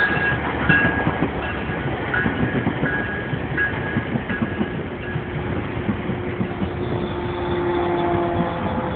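GO Transit commuter train rumbling along the rails, with a bell ringing about every 0.7 seconds that fades out about halfway through. A steady tone comes in near the middle and holds until near the end.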